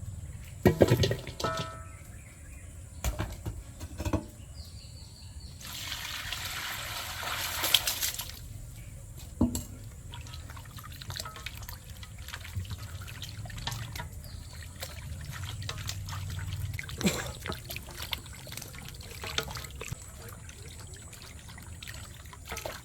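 Water pouring and trickling, with a steady louder pour lasting about two seconds partway through and scattered knocks and clatter of handling around it.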